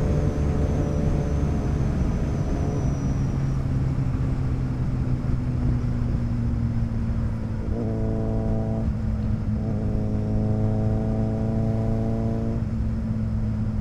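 Motorcycle engine running steadily at cruising speed, with rushing wind noise over it. A higher, steady drone comes in and drops out a few times.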